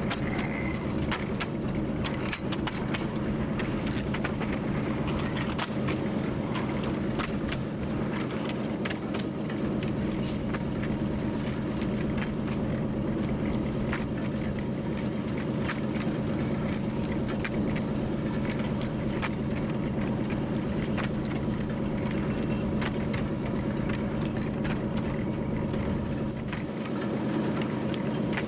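TU7 narrow-gauge diesel locomotive running steadily, its engine holding an even note, with frequent clicks and rattles as it moves along the track.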